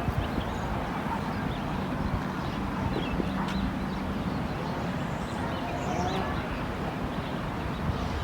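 Outdoor ambience: a steady wind rumble on the microphone, with faint scattered bird chirps and a faint low hum between about one and four seconds in.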